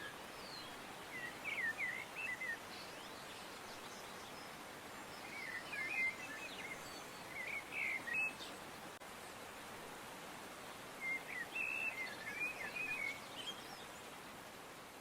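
A songbird chirping in short quick phrases, three of them spaced several seconds apart, over a steady background hiss.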